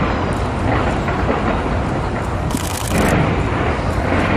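Aerial fireworks going off in rapid succession: a dense stream of bangs and crackles, with a sharper burst about two and a half seconds in.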